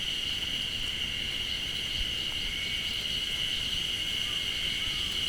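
Chorus of insects, which the walker takes for cicadas, making a continuous high-pitched buzz that holds a steady level throughout. Title and description call it noisy.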